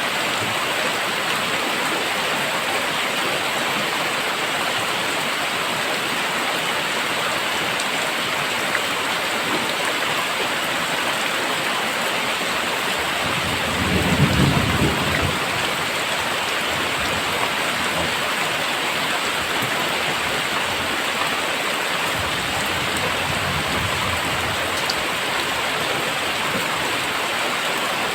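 Very heavy rain pouring down steadily. About halfway through, a low rumble of thunder swells for a couple of seconds and fades.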